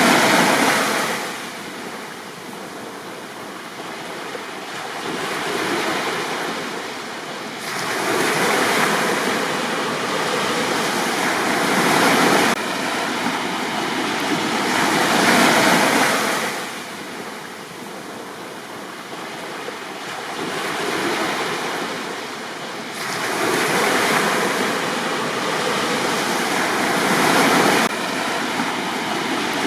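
Sea waves breaking and washing up a beach, the surf swelling and fading in long surges every several seconds.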